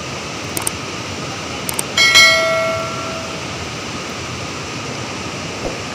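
Steady rush of floodwater, with one struck metallic ring about two seconds in that fades out over about a second, and a few faint clicks before it.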